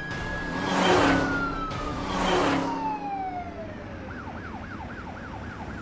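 Ambulance siren: a long wail that holds high and then slides down in pitch, switching near the end to a fast yelp of about four rises a second. Two whooshing swells of noise come through about a second in and again after two seconds, the first one the loudest.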